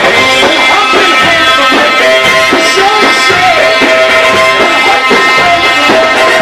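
Loud Egyptian sha'bi wedding band music: a held melody note with ornamented turns over percussion.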